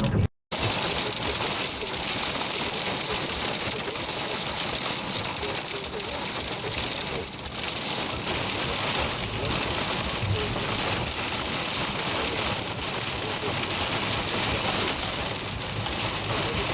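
Heavy rain falling steadily: a dense, even hiss of rain on surfaces during a severe thunderstorm.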